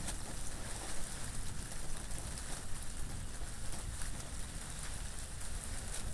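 Steady rain falling, with many small drops pattering on surfaces and a low rumble underneath.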